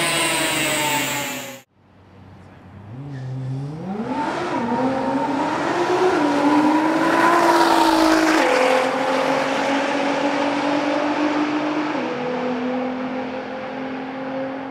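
Nissan GT-R R35's twin-turbo V6 winding down on a chassis dyno, its pitch falling, until it cuts off suddenly. The car then pulls away hard: the engine pitch rises steeply, holds, and drops at two upshifts while the sound fades as the car recedes down the straight.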